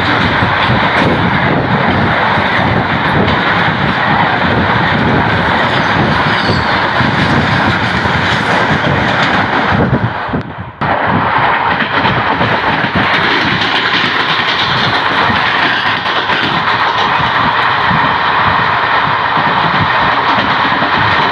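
Loud, steady rush of wheels on rail and air from an Indian Railways passenger train running at speed, heard from its open door as a goods train of open wagons passes close by on the next track. The sound briefly drops out about halfway through.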